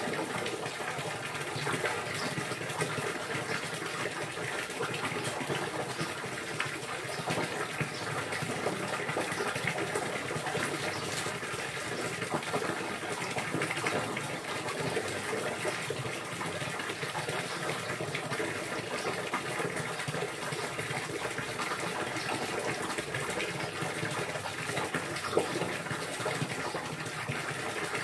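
Water pouring and splashing steadily, an even rushing with no let-up.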